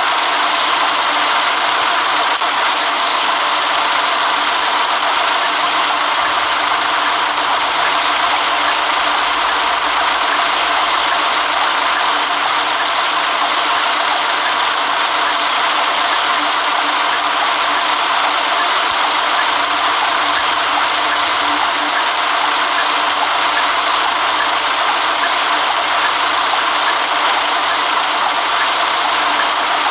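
A city bus running, heard from inside the cabin: steady engine and road noise with body rattles.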